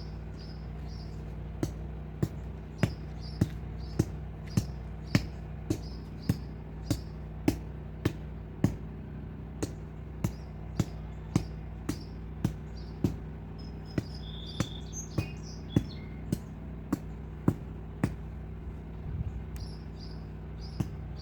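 Sharp, evenly spaced clicks, a little under two a second, starting about a second and a half in, over a steady low hum, with a few high bird chirps.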